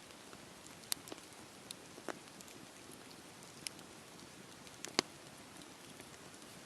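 Campfire burning: a soft steady hiss with scattered sharp crackles and pops of burning wood, the loudest a close pair of pops about five seconds in.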